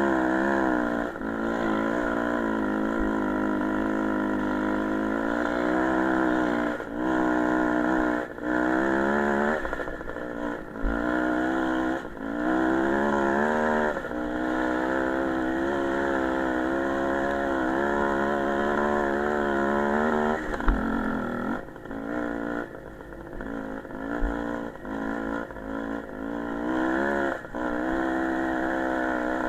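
Small single-cylinder motorcycle engine under way, its pitch rising and falling with the throttle over and over, with short dips every few seconds where the throttle is closed.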